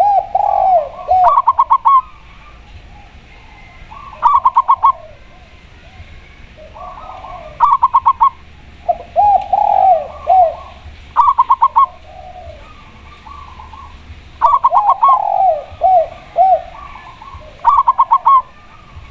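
Spotted dove and zebra dove calling back and forth: short bursts of quick clipped notes repeating every three to four seconds, and, three times, a lower run of drooping coo notes.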